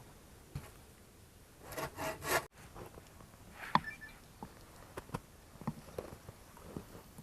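Three short rasping strokes, like scraping or sawing on wood. After a sudden cut, scattered light knocks and clicks follow.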